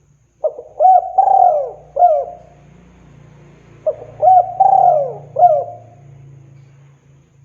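Spotted dove (tekukur) cooing, a male's call to a female: two phrases of about four quick coos each, a few seconds apart.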